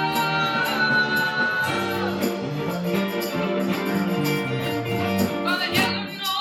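Live band playing a rock cover, guitar prominent over a steady drum beat with regular cymbal ticks. A wavering singing voice comes in near the end.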